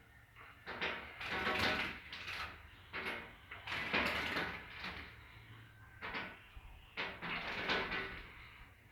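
A small pet bird pecking and scrabbling at a mirror at its own reflection, in irregular bursts of tapping and scraping.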